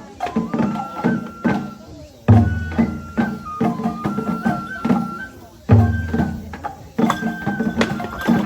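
Japanese festival music (hayashi) accompanying a shishi lion dance. A flute plays a held melody that steps up and down, over a steady run of drum strokes, with a deep big-drum hit about two seconds in and again near six seconds.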